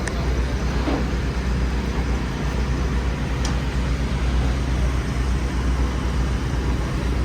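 Low, steady vehicle engine rumble.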